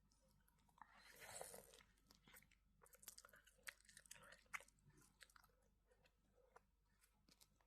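Faint chewing of food, with scattered small mouth clicks and a brief rustle about a second in.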